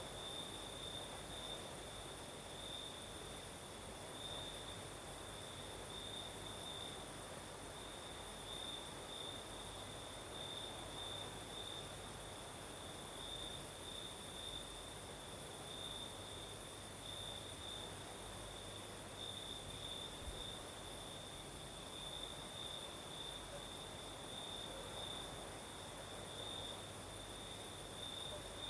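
Crickets singing, a continuous high pulsing trill, over a soft hiss of night breeze.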